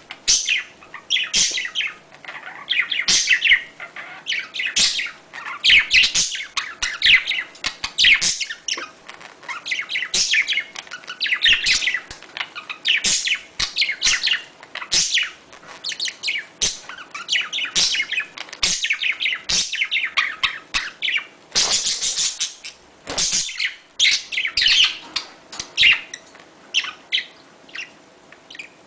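Budgerigars chattering and warbling, the breeding-season calls of budgies: a continuous run of quick chirps, trills and squeaks. A louder, harsher burst comes a little past three-quarters of the way through.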